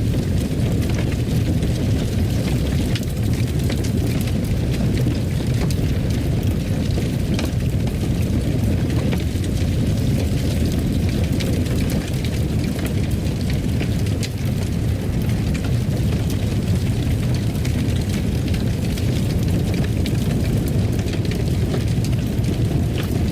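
Wood fire burning in a fireplace: a steady low roar with frequent small crackles and pops.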